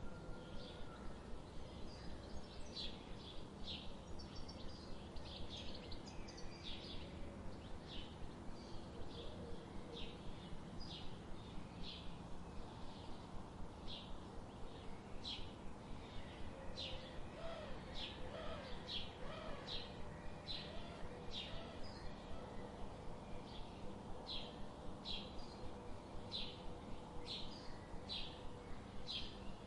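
A bird repeating short, high chirps about twice a second, with a few fainter lower calls from other birds and a steady background hiss.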